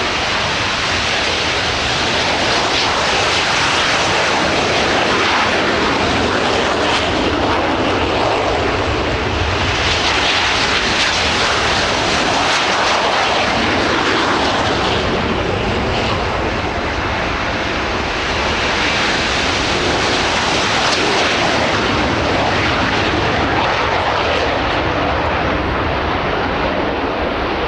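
Jet aircraft engines running loud and continuous, swelling and easing several times as the aircraft move.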